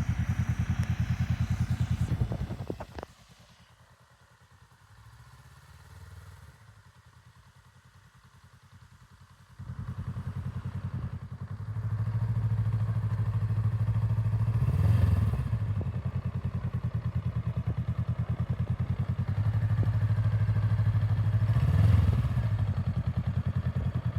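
2023 Honda Rebel motorcycle engine idling, then cutting out with a knock about three seconds in, as a learner easing out the clutch stalls it. It is started again about ten seconds in and idles, twice running louder for a few seconds.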